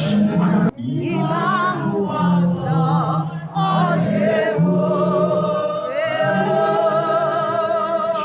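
Gospel worship music: voices singing over a steady low accompaniment, ending on one long note held with vibrato. There is a brief break about three-quarters of a second in.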